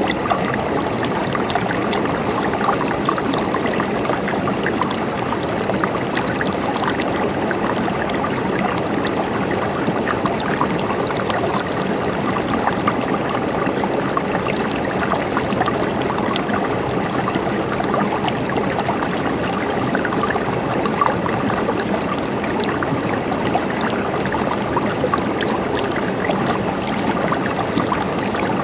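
Stream water flowing and trickling steadily, an even rushing babble with fine droplet splashes.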